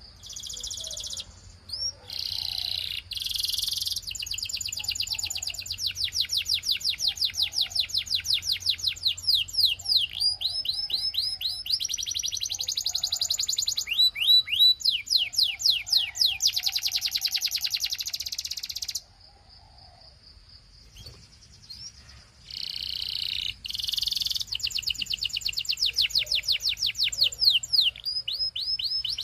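Belgian canary singing: long runs of rapid trills made of fast repeated high whistled notes and quick falling sweeps. The song breaks off for about three seconds after roughly nineteen seconds, then resumes.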